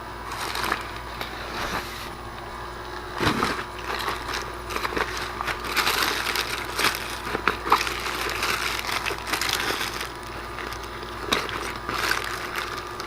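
Cardboard box and packaging being handled and opened: irregular crunching and rustling with scattered clicks and a sharper knock about three seconds in.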